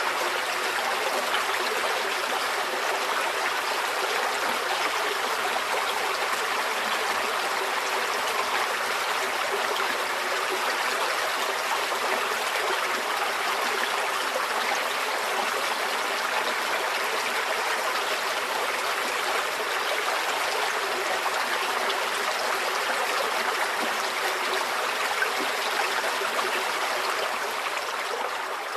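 Stream water flowing steadily: a continuous, even rush and trickle that is mostly high-pitched, with little low rumble.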